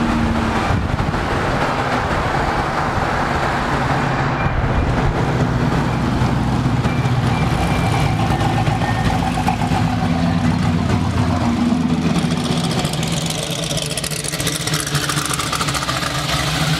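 Engines of street-driven drag race cars running in slow traffic: a loud, steady low engine note that shifts in pitch as the cars move along.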